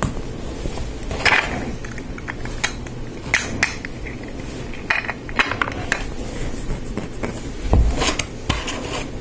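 Plastic Lego Technic pieces clicking and clattering as they are handled and pressed together, with scattered sharp clicks and a dull thump on the work surface near the end.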